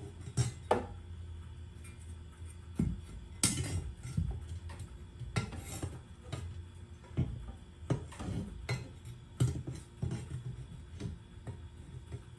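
Metal hardware and hand tools clinking and knocking as they are handled, in irregular sharp strikes, with a steady low hum underneath.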